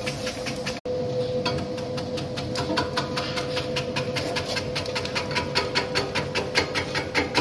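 Potato chip slicing machine running: a steady motor hum with rapid, even clicking, about seven clicks a second.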